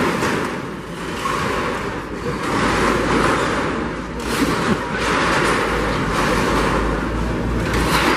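Heavy demolition machinery running, a loud steady rumble with rising and falling noise over it.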